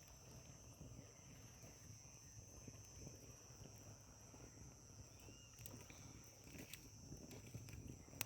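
Faint outdoor evening ambience: a steady high-pitched insect drone, with a few sharp clicks near the end.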